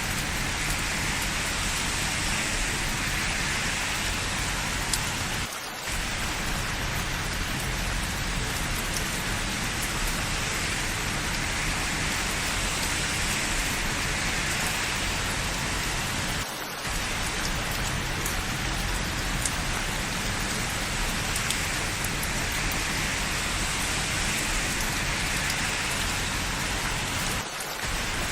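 Steady rain falling, an even hiss with a brief dip in level three times, evenly spaced.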